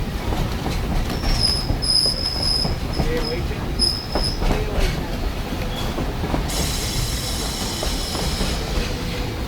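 Passenger train rolling along the rails with a steady low rumble, its wheels squealing high and thin for a couple of seconds about a second in, then again more roughly for about two seconds later on. Heard from aboard the train.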